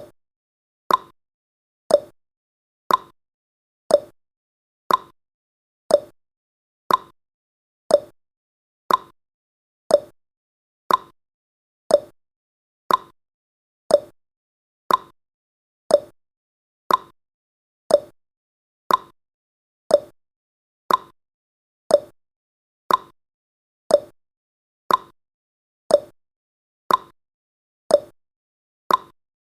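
A countdown timer's tick sound effect, one short, sharp tick every second, evenly spaced, each dying away quickly.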